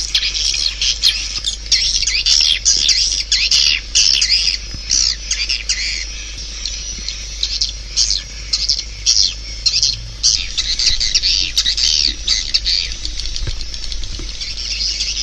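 Swiftlet calls: a dense, continuous chatter of rapid high chirps and twitters, choppy at first and smoothing out near the end. This is the kind of swiftlet call track played through tweeters to draw swiftlets to a nesting house. A steady low hum runs underneath.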